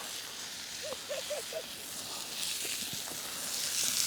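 Wood campfire burning under a pan on a grill: a steady hiss with a few faint crackles.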